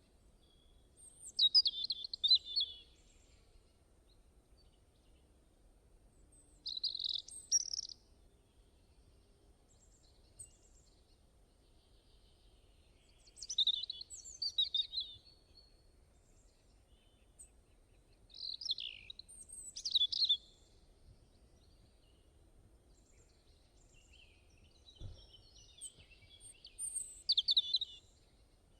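A songbird singing short, high chirping phrases every few seconds, with quiet gaps between them.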